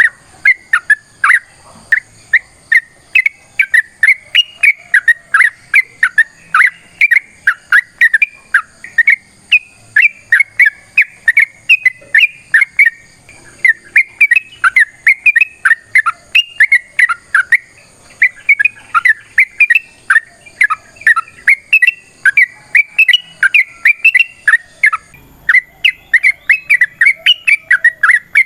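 Yellow-vented bulbul (trucukan) singing a long, unbroken run of quick chirping notes, several a second with barely a pause. This is the 'ropel panjang' song used as a lure or a tutor recording for captive bulbuls.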